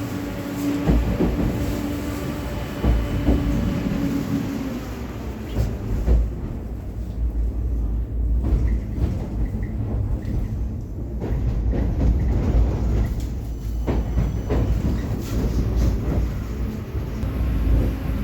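Inside a Vityaz-M (71-931M) low-floor tram running along the track: a steady rumble of wheels on rail with scattered knocks and clicks. A steady hum stops about four seconds in.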